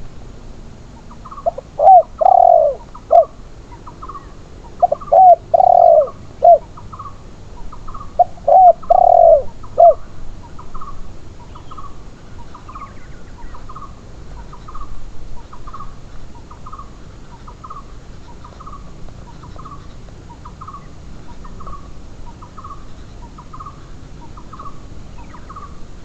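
Spotted doves cooing: three loud cooing phrases in the first ten seconds, with a short higher note repeating about once a second throughout.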